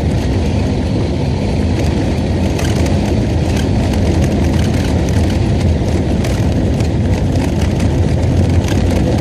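Inside a VAZ classic (Zhiguli) car driving through snow: a steady, loud rumble of engine and road noise, with scattered crackling over it.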